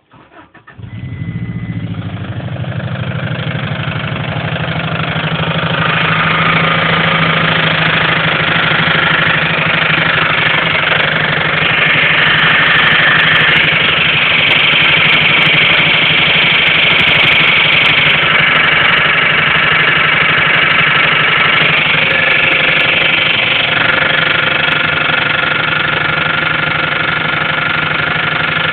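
Turbocharged Subaru WRX flat-four engine catching after a brief crank about a second in, then idling steadily and loudly, with the knock the owner suspects is a blown big-end (connecting-rod) bearing.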